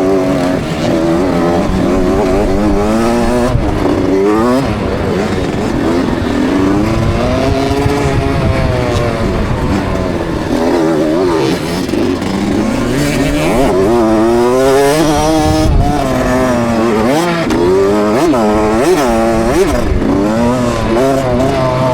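KTM 65 SX two-stroke motocross bike engine, revving up and falling back over and over as the throttle is worked and gears change, heard from a helmet camera.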